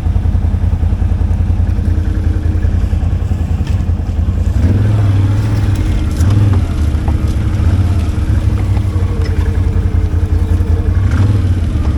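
ATV engine running at trail speed with a steady low rumble, swelling briefly with throttle a few times.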